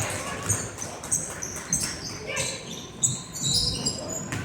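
Basketball shoes squeaking on a gym floor in many short, high chirps, with a few dull thuds of a basketball bouncing.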